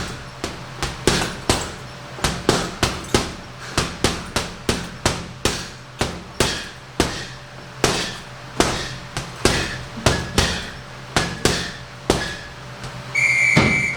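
Punches landing on a heavy punching bag, sharp thuds in irregular combinations of about two to three a second. Near the end a single electronic beep sounds for under a second.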